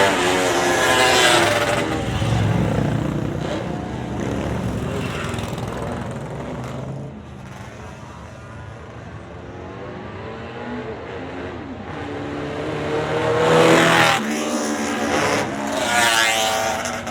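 Vintage motorcycles riding past one after another, each engine's pitch dropping as it goes by. A pass fades away at the start, there is a quieter lull in the middle, and two loud passes come close together near the end.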